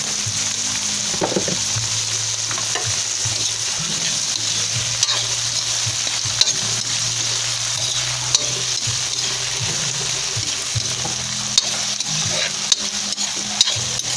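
Halved cherry tomatoes, onion and garlic sizzling in hot oil in a metal wok, stirred with a metal spatula. The spatula scrapes and taps sharply against the pan here and there, more often in the second half.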